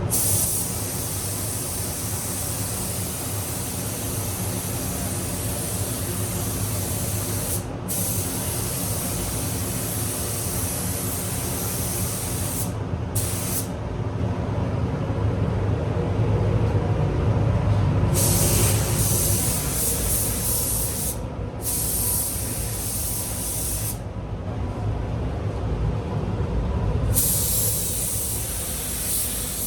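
Air-fed paint spray gun hissing as it sprays primer onto the car's panels, stopping briefly a few times and for a few seconds near the end as the trigger is let go. A steady low hum runs underneath.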